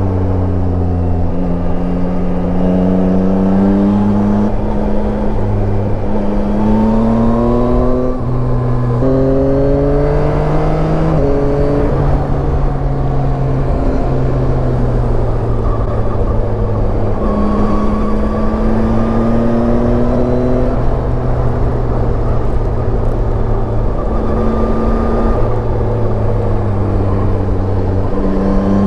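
Yamaha Tracer 9 motorcycle's inline three-cylinder engine under way, its pitch climbing and dropping back several times in the first half as it pulls through the revs, then holding steadier with gentler rises. A steady rush of wind and road noise runs underneath.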